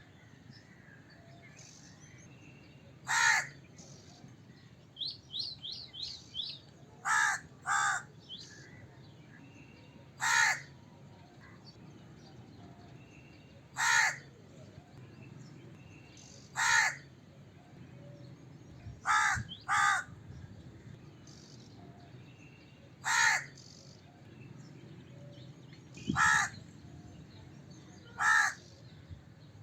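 A crow cawing: about eleven single caws spaced every few seconds, some coming in quick pairs. Early on, a quick run of short, high chirps from a smaller bird.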